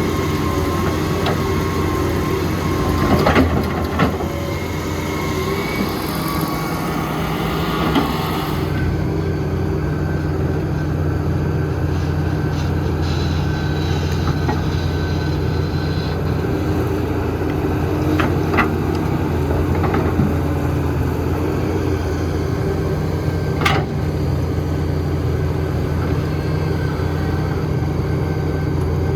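Heavy diesel engine of construction machinery running steadily, with a few sharp metallic clanks spread through it.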